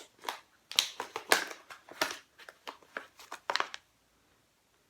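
Tea packaging crinkling and rustling as it is handled: a run of irregular crackles that stops a little short of four seconds in.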